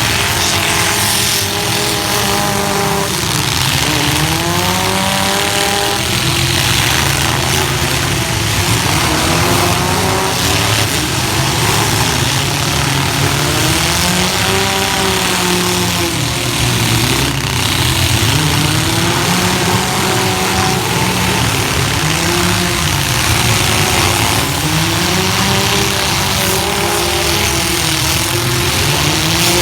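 Several compact pickup engines revving up and down together in a demolition derby heat, with crowd and crash noise mixed in the roar.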